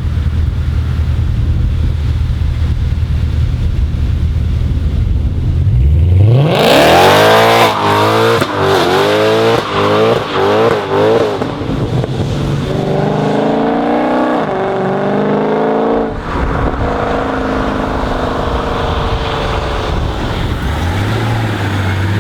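A Mercedes-AMG car engine idling low, then revved hard about six seconds in: several quick blips up and down, then held at high revs and climbing, before dropping suddenly and running on steadily at middling revs.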